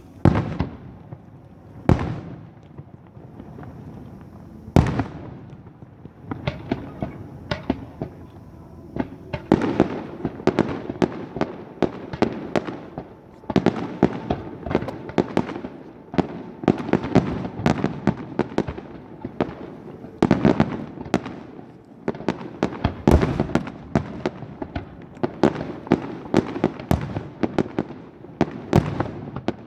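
Aerial fireworks display: three single loud bangs in the first five seconds, then from about nine seconds in a dense, rapid crackle of many bursts one after another.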